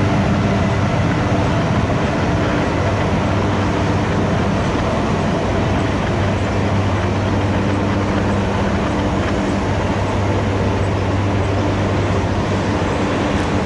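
Double-stack intermodal freight train's container well cars rolling past on the rails: a steady rumble of wheels on track with a low hum.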